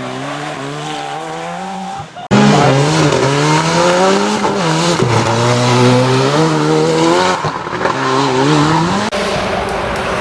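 Ford Sierra Cosworth's turbocharged four-cylinder rally engine being driven hard, its pitch climbing and dropping repeatedly with gear changes and lifts off the throttle. The sound breaks off abruptly about two seconds in and again near the end, where one shot is cut to the next.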